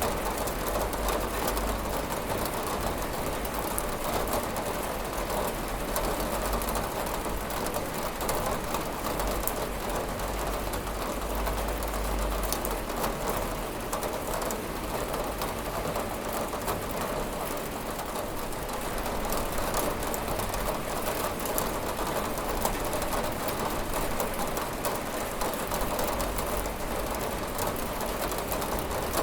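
Steady rain beating on a window, a dense even hiss full of small drop ticks over a low rumble.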